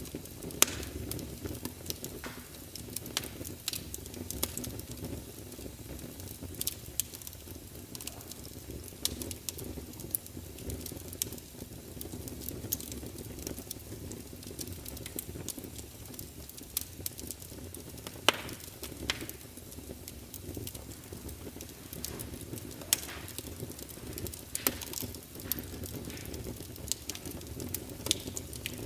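Burning wood fire crackling, with irregular sharp pops over a steady low rush of flame. Two pops stand out above the rest: one just after the start and one about two-thirds of the way through.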